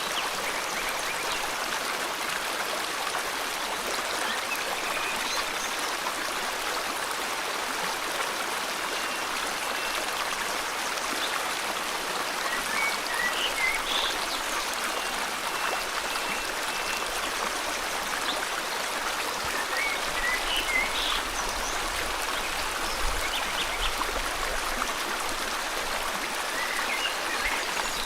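River water flowing steadily, with short bird chirps coming in now and then over the rush.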